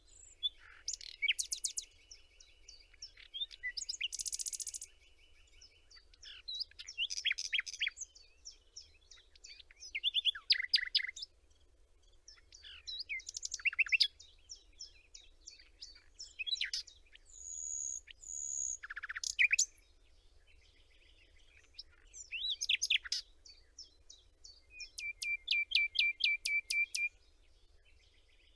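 Songbirds singing: varied phrases of chirps, trills and whistles, each a second or two long with short pauses between. Near the end comes a fast run of short repeated notes.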